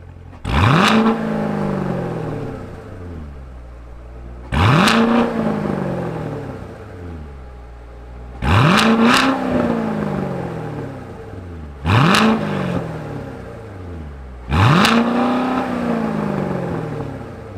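A Chevrolet Corvette C7 Grand Sport's 6.2-litre naturally aspirated pushrod V8, heard through its quad-tip performance exhaust, idling and being revved five times. Each rev climbs sharply, then winds down slowly back to a deep idle.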